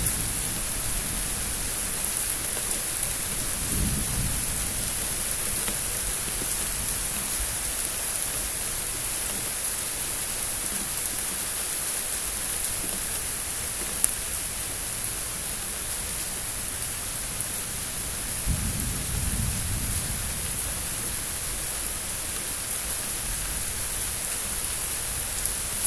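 Steady rain with thunder rumbling low twice, about four seconds in and again near twenty seconds in. A single sharp tick comes partway through.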